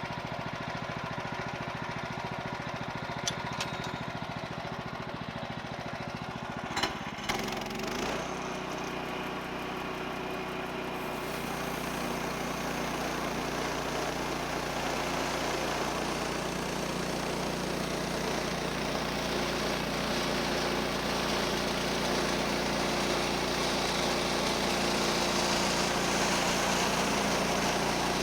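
A portable bandsaw sawmill's 14 HP Kohler engine idling, with a few sharp clicks, then throttled up about seven seconds in so the centrifugal clutch drives the band blade. From about eleven seconds the blade is cutting through the log, a steady cutting noise over the engine that grows a little louder toward the end.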